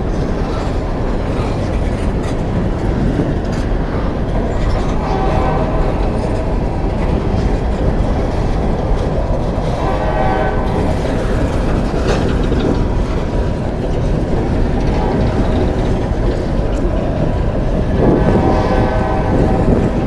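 Long coal train rolling past with a steady rumble and the clatter of wheels on the rails. A pitched tone rises out of it three times: about five seconds in, around ten seconds, and again near the end.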